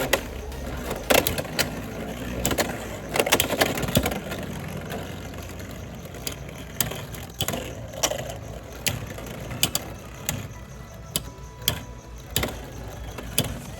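Two Beyblade X spinning tops battling in a plastic stadium, with irregular sharp clacks of collision over a steady spinning hum. The clashes come thick in the first half and thin out toward the end as the battle winds down.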